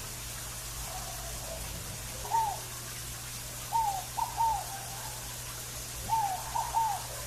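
Scaled dove (fogo-apagou) cooing. It gives one soft note, then two phrases of three short hooting notes. A steady low hum and a faint hiss run underneath.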